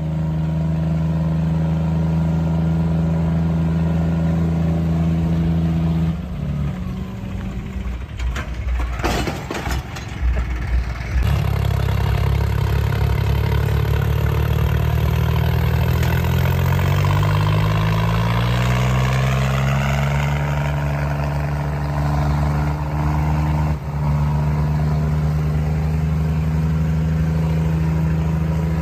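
Tractor diesel engine running steadily. About six seconds in it turns rough and uneven for several seconds, with clattering knocks, then settles back into a steady run. Its pitch rises between about sixteen and twenty seconds in, then holds.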